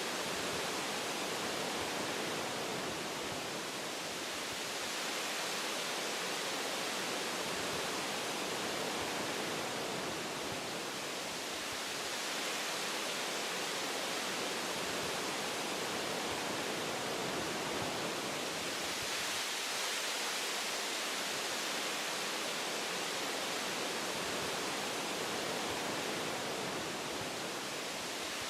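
Wind blowing through tree branches in a forest, a steady rushing hiss that swells and eases gently every few seconds.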